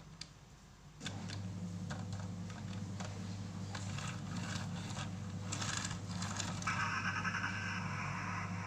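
Small electric motor of a toy truck running with a steady whir and clicking of its gears, starting about a second in; near the end a hissing noise joins it.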